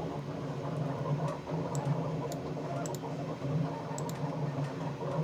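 Computer mouse clicking now and then, about half a dozen short sharp clicks, over a steady low hum.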